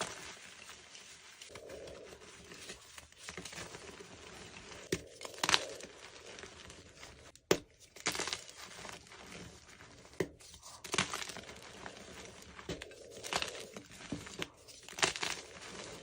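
A block of gym chalk being crushed and crumbled close up: a continuous soft crackle broken by sharp, irregular crunches every second or so, the loudest about a third of the way through and near the middle.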